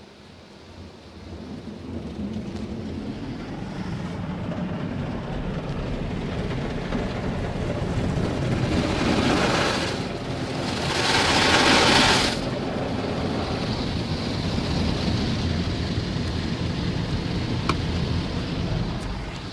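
Automatic car wash heard from inside the car's cabin: a steady low rumble of the machinery with water spraying and pattering on the body, and a louder hissing blast of spray about halfway through that lasts a couple of seconds.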